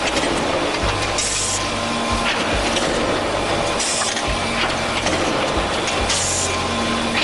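CNC angle steel punching, marking and shearing line running: steady machine noise with a short hiss about every two and a half seconds and dull knocks in between.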